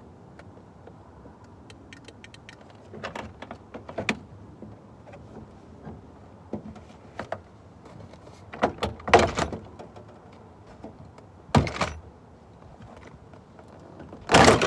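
Clicks and knocks with several short scraping bursts from work on a 2001 Dodge Ram 1500's door window, whose glass had come off its track.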